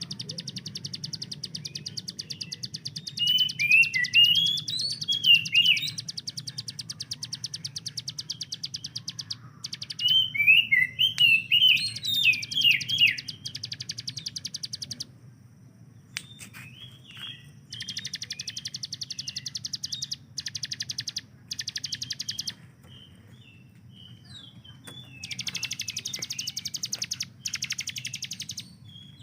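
Ciblek gunung, a prinia, singing its very fast, machine-gun-like rattling trill in several long bursts with short breaks, mixed with louder swooping chirps in the first half. A steady low hum runs underneath.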